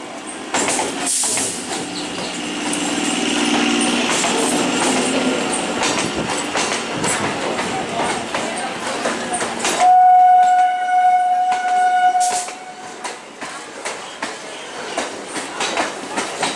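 EMU electric local train passing at speed, its wheels clattering over the rail joints. About ten seconds in, a train horn sounds one long steady note for about two and a half seconds.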